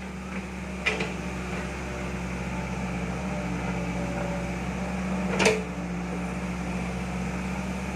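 A steady low engine hum with no change in pitch, and a short vocal sound about five and a half seconds in.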